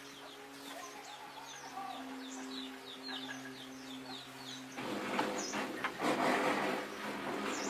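Small birds chirping in quick repeated short notes over a steady low hum. About five seconds in, a louder rushing hiss sets in and becomes the loudest sound.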